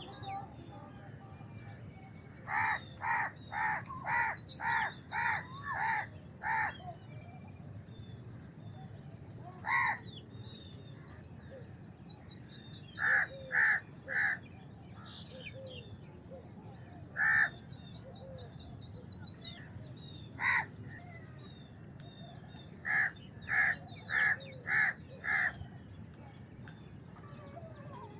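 House crows cawing in runs: a string of about eight harsh caws a few seconds in, then single caws and quick groups of three and five. Smaller birds chirp high-pitched underneath throughout.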